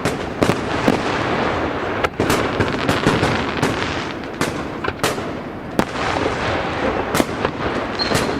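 Fireworks going off in a dense barrage: sharp bangs every half second or so over a continuous crackle.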